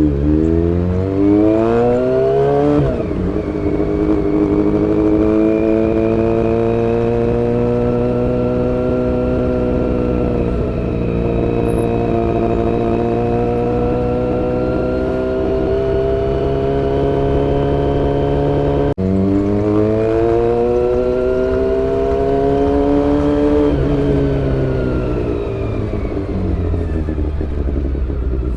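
Honda CBR400RR's inline-four engine pulling up through the revs, shifting up, then cruising steadily for a long stretch under wind noise. About two-thirds of the way in, it shifts again, climbs in pitch and eases back to a steady cruise.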